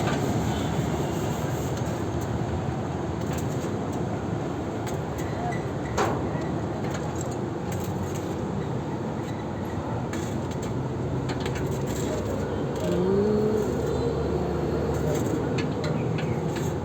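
A motor vehicle engine running steadily, with a sharp click about six seconds in.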